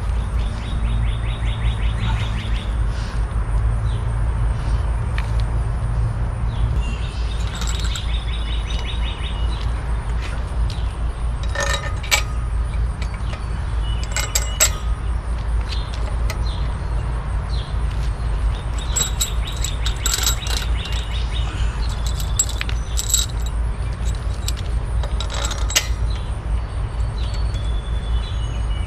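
Metal tools or parts clinking a few times, with birds chirping, over a steady low rumble.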